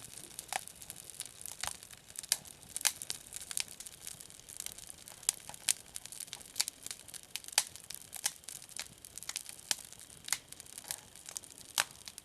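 Newly lit spruce fire log crackling, with sharp irregular snaps a few times a second.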